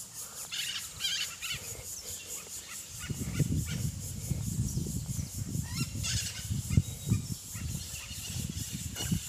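Birds calling over a steady high hiss outdoors, with a louder irregular low rumbling noise starting about three seconds in.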